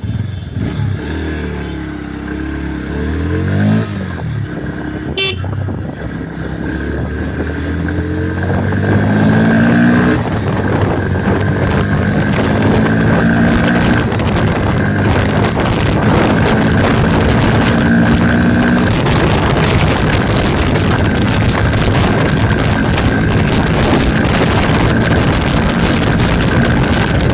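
Motorcycle engine accelerating through the gears, its pitch climbing and dropping back at each shift, then running at a steadier speed. Wind and road noise grow louder as it gets faster.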